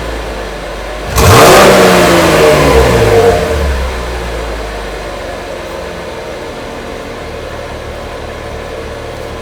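2019 Chevrolet Camaro's exhaust with the NPP dual-mode exhaust fuse pulled, so the valves stay open: the engine is revved sharply once about a second in, falls back over the next couple of seconds and settles into a steady idle.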